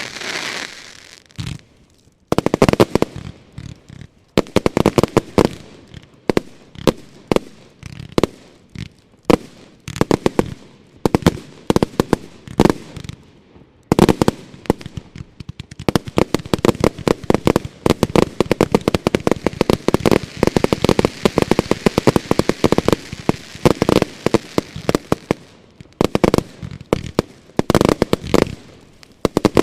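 Consumer category F2 fireworks batteries firing a dense barrage: rapid volleys of sharp bangs with only short breaks, and a stretch of continuous crackling midway.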